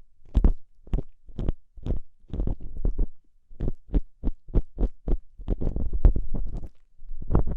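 Ear-cleaning tool scraping and rubbing inside an ear, close up: short repeated strokes about two a second, with one longer rub a little past the middle.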